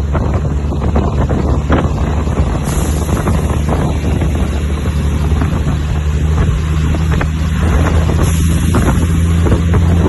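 Heavy truck's diesel engine running with a steady low drone, with wind rumbling on the microphone.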